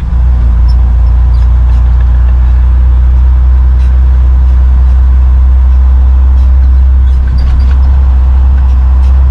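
Truck cab interior while driving: a steady, loud low drone of engine and road noise.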